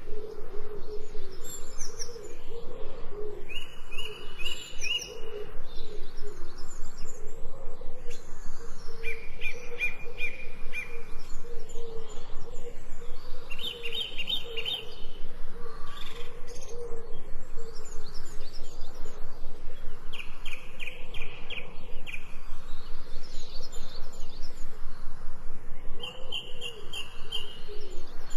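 Birds calling with short, fast trills about every five or six seconds, over a steady background noise.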